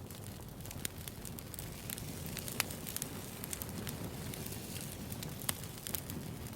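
Campfire crackling: a steady low rumble of burning wood with frequent sharp, irregular pops and snaps.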